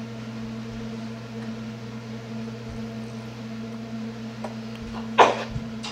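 Steady low hum of an appliance running, with a short, loud puff of noise about five seconds in. The hum cuts off abruptly near the end.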